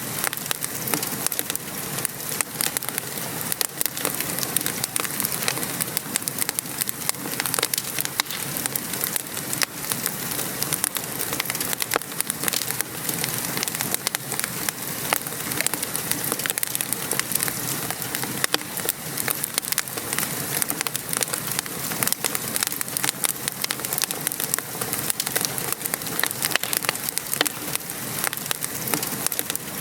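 Wood fire crackling in a fireplace, with many sharp pops and snaps over a steady hiss of rain.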